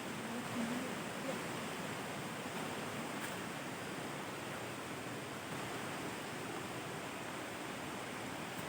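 Steady rushing of a waterfall: falling water making an even, unbroken noise.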